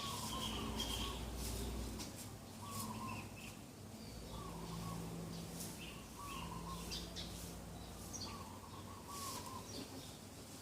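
Birds singing in the morning: one bird repeats a short wavering call every second or so, with other chirps above it and a faint low hum underneath.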